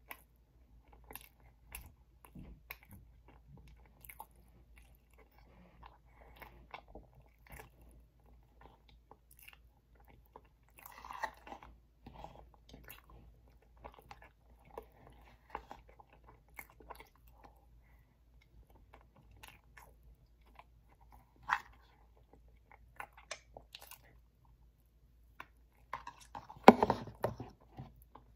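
A person chewing and eating Oreo cake with a metal fork from a plastic bowl: soft chewing and small scattered clicks of the fork against the bowl. There is a louder burst of sound near the end.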